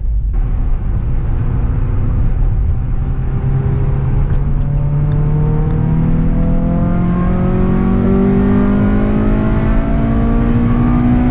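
Honda Integra Type R DC2's 1.8-litre VTEC four-cylinder engine accelerating through one gear, heard from inside the cabin, its revs climbing steadily over several seconds from about four seconds in.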